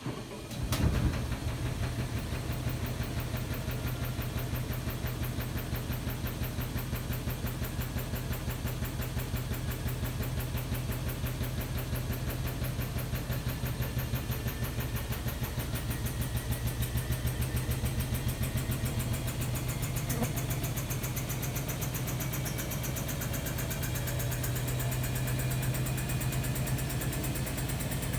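Hotpoint-Ariston Aqualtis washer-dryer starting up and running with a steady, fast-pulsing hum.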